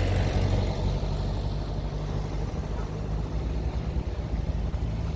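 Steady low hum of a vehicle engine running.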